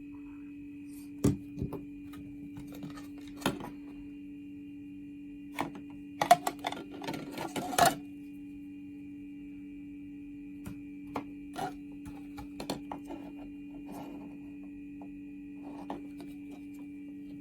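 Scattered clicks, knocks and rattles of objects being handled, with a busier stretch about six to eight seconds in, over a steady low hum.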